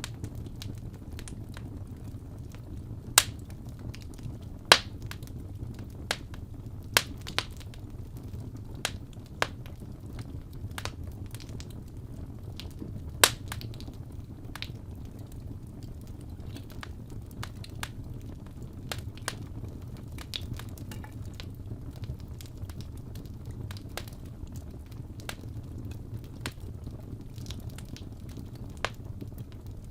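Wood fire burning in a fireplace: scattered sharp crackles and pops over a low, steady rumble, with a few louder pops in the first half.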